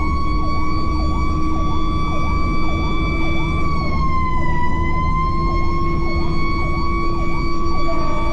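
Fire engine running code with its siren sounding: one steady high siren tone that sags briefly in pitch about halfway through and climbs back, over a faster yelping siren and a low engine rumble. A further horn-like tone comes in near the end.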